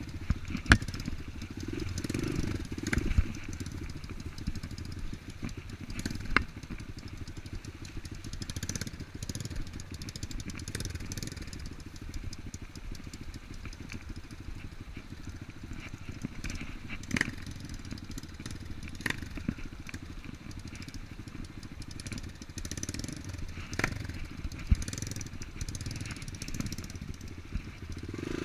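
Off-road motorcycle engine running steadily, with scattered sharp knocks and clicks.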